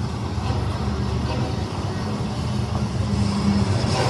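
Diesel freight locomotive running steadily with a low engine drone as the train approaches, growing louder near the end.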